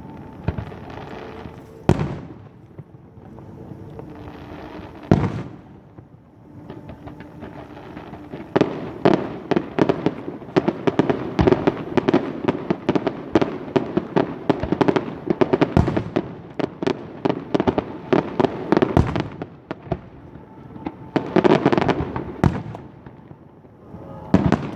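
A fireworks display: a few single bangs a couple of seconds apart at first, then from about eight seconds a long run of rapid crackling reports that eases near twenty seconds and flares up again briefly.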